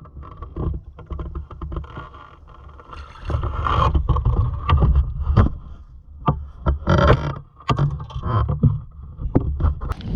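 Wind buffeting the microphone on a small fishing boat, with repeated knocks and clatters of gear against the hull.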